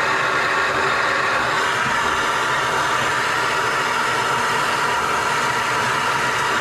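Plumber's torch flame burning with a steady hiss while soldering a copper pipe joint.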